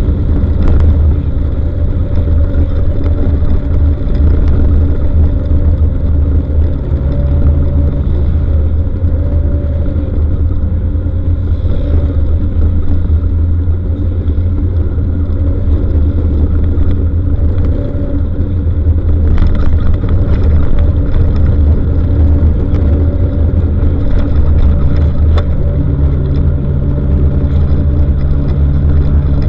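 Motor vehicle running on the road: a loud, steady low rumble of engine and road noise with a constant engine hum, the hum rising slightly near the end.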